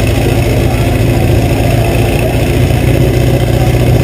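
Drag racing car engine idling loudly at the start line, a steady deep rumble that holds without revving up.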